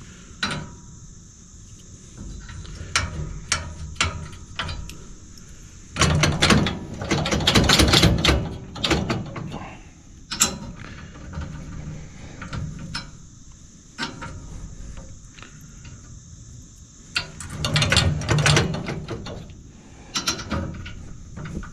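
Metal clinks, knocks and rattles of a tractor's three-point hitch stabilizer bar and its pins being handled and fitted. There are scattered single clicks, with a busier stretch of clattering about six seconds in and another a few seconds before the end.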